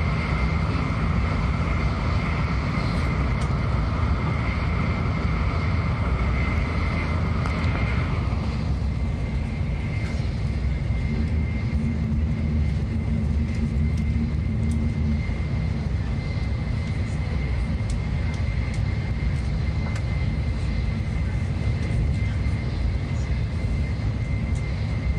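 Shinkansen Nozomi running at speed, heard from inside the carriage: a steady low rumble with a faint steady high whine. About a third of the way in, part of the higher-pitched noise drops away.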